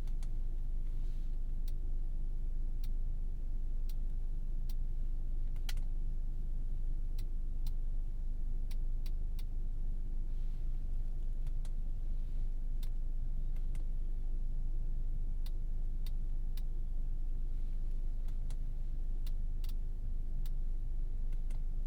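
Steady low rumble of road and engine noise inside the cabin of a 2017 Audi A3 with a 2.0-litre turbocharged four-cylinder, cruising at an even pace. Sharp little ticks come through at irregular intervals.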